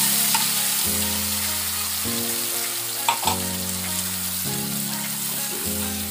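Ground onion paste sizzling in hot oil in a non-stick kadai while it is stirred with a spatula. The spatula clicks against the pan about a third of a second in and again around three seconds in. Background music with held notes plays underneath.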